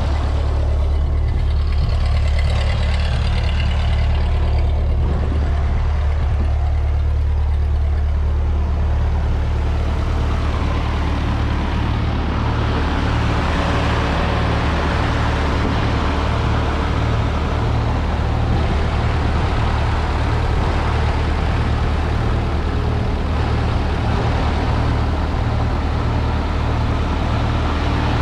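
Vintage tractor's four-cylinder engine idling steadily as it warms up after a cold start.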